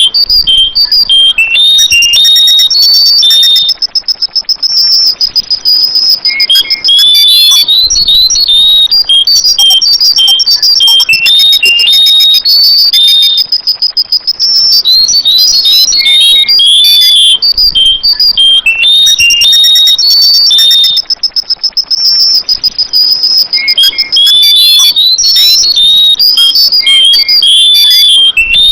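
Sooty-headed bulbul (kutilang) song: loud bursts of quick, chirpy whistled notes, each run into a long, high, even trill, with the phrase repeating over and over about every seven seconds.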